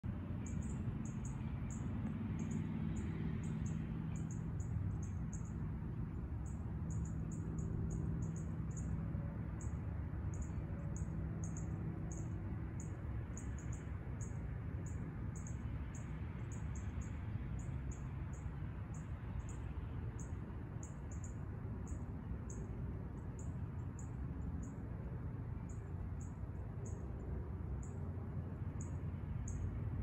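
A small bird calls repeatedly with very short, thin, high-pitched chirps, about two a second in irregular runs, over a steady low background noise.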